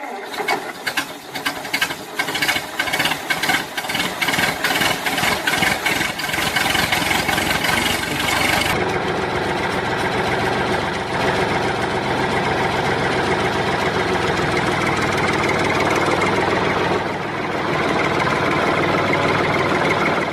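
A motor running, with a rapid, even knocking clatter for the first eight or nine seconds that then gives way to a steadier running noise.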